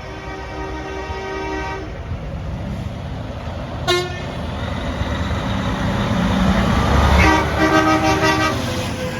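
Truck air horns blowing as convoy trucks pass: a long blast, a short toot about four seconds in, then several more blasts over rising engine rumble as a truck goes by.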